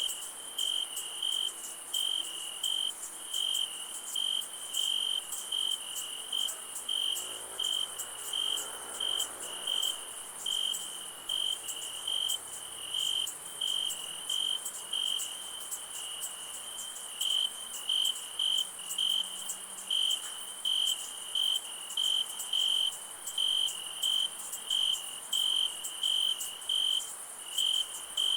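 Crickets chirping: a high chirp repeating steadily about twice a second, over a continuous higher-pitched insect trill.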